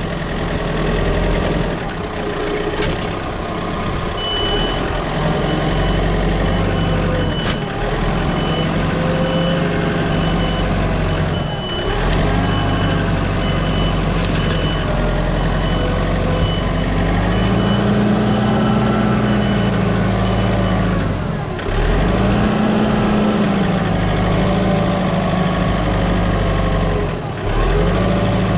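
Heavy machine engine working under varying load, its pitch rising and falling, with a warning alarm beeping steadily for much of the time, then stopping about two-thirds of the way through.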